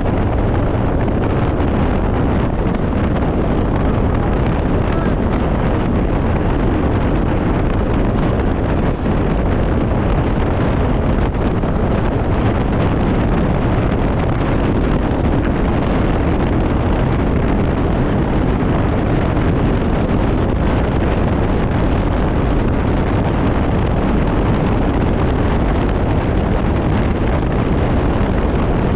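Steady loud wind rush over the microphone of a riding scooter, with engine and road noise blended underneath.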